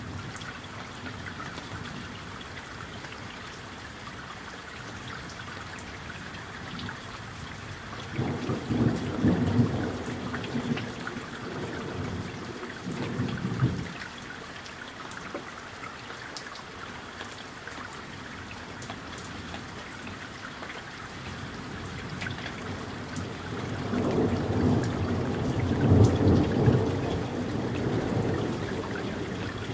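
Summer thunderstorm: steady rain throughout, with two long rolls of thunder, one starting about eight seconds in and lasting several seconds, the other building near the end.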